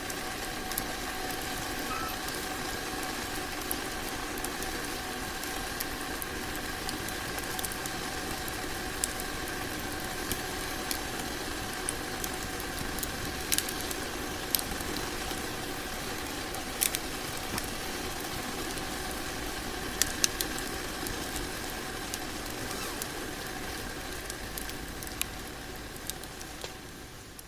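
Fire in a hot-tent wood stove burning with a steady hiss and scattered sharp crackles, fading out near the end.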